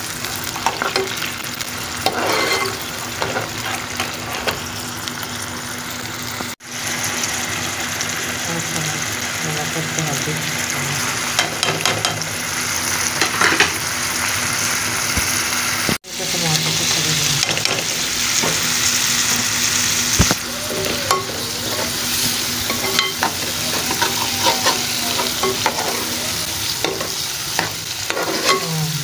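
Onions and spices frying and sizzling in oil in a steel pot while a steel ladle stirs and scrapes against the pot. The sound drops out briefly twice, about 6 and 16 seconds in.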